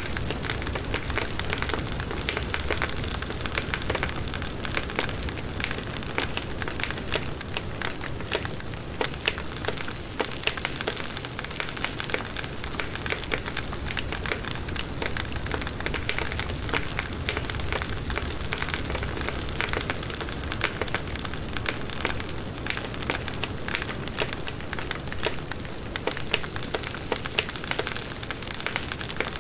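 Firewood burning in a campfire, crackling steadily with a dense stream of small snaps and pops over a continuous hiss.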